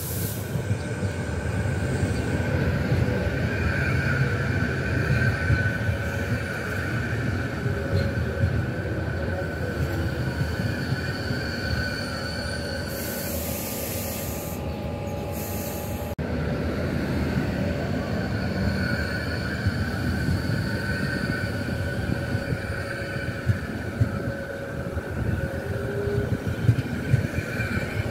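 Renfe Media Distancia multiple-unit train rolling slowly into the station and braking, its wheels and brakes squealing in steady high tones over a low rumble. A short hiss about halfway through.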